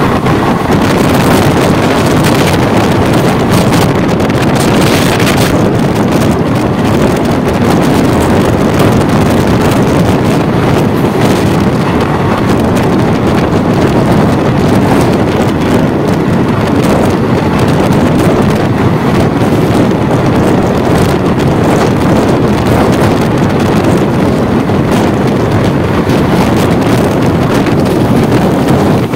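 Loud, steady rush of wind on the microphone over the running noise of a fast-moving passenger train's wheels on the rails, heard at an open coach window.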